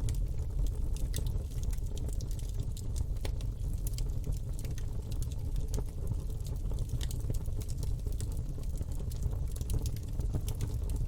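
Campfire burning: a steady low rumble of flames with frequent sharp, irregular crackles and pops.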